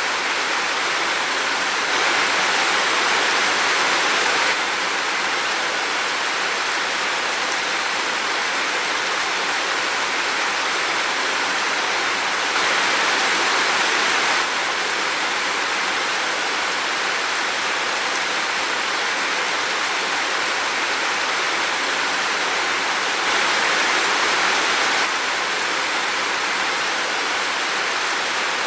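Heavy rain falling, a steady dense hiss that swells a little louder for a couple of seconds three times.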